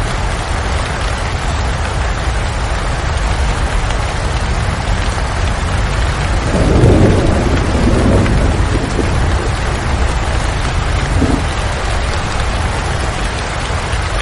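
Steady heavy rain, with a low rumble of thunder swelling up about halfway through and dying away over a few seconds.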